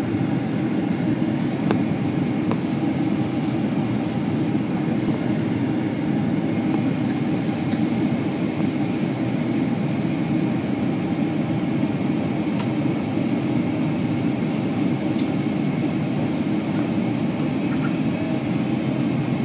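Steady cabin noise inside a Boeing 767-300 on approach: an even, low rush of airflow and engines, with a few faint clicks.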